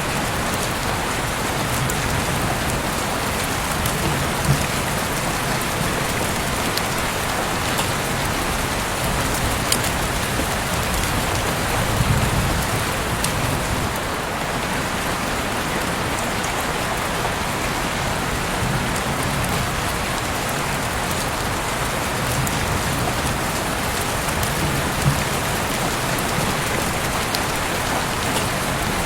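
Heavy rain falling steadily outside an open window, a dense even hiss with a few sharper drop hits standing out now and then.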